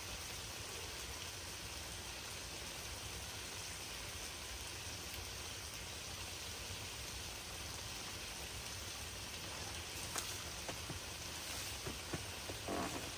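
Steady rain falling, with a few light knocks near the end.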